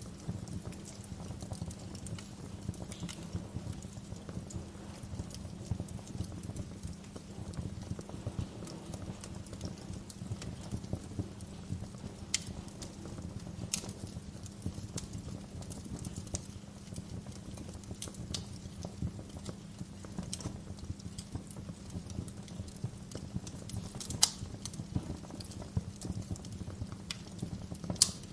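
Wood fire burning in a fireplace: a steady low rumble of flames with irregular sharp crackles and pops, two louder snaps near the end.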